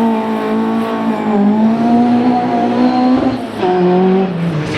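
Rally car engine held at high, fairly steady revs, then dropping in pitch about three and a half seconds in and falling again near the end as the revs come off.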